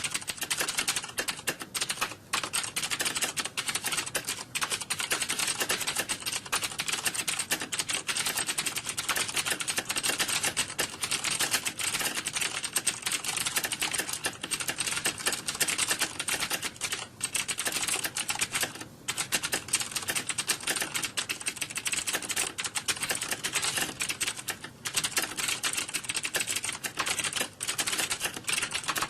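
Computer keyboard typing: a fast, dense stream of key clicks without let-up, broken by short pauses about 2, 19 and 25 seconds in.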